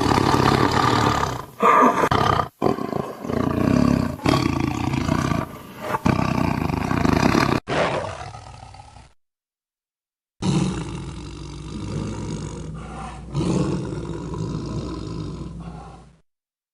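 Tiger growling: a string of loud growls with short breaks between them, then a silence of about a second and a softer, longer stretch of growling that stops near the end.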